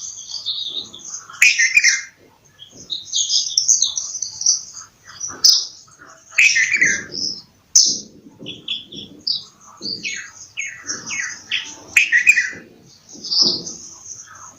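Bulbul calling: a busy run of short high chirps and whistles, with a series of quick falling whistles about ten seconds in. A few sharp clicks sound among the calls.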